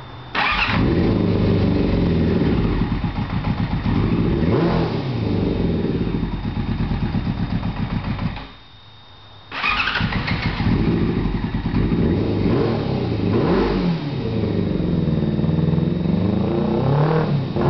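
Carbureted Yamaha R6 inline-four motorcycle engine started and blipped. It runs roughly because it is missing on one cylinder, despite cleaned carbs and new spark plugs. It dies about 8.5 seconds in and is restarted a second later.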